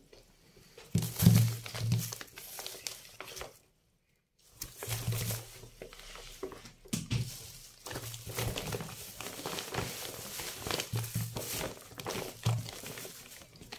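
Plastic shopping bags rustling and crinkling as groceries are handled, with a few soft low thuds.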